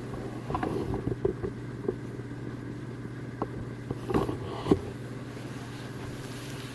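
A steady low hum runs throughout, with a scattered handful of short knocks and rustles in the first five seconds. The loudest is a sharp knock shortly before five seconds in.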